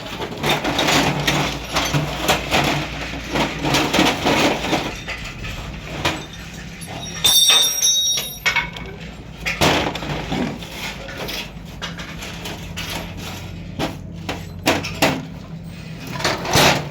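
Metal tools and rickshaw gearbox parts knocking and clattering during engine assembly, with one sharp ringing metal clink about seven seconds in, over a steady low hum.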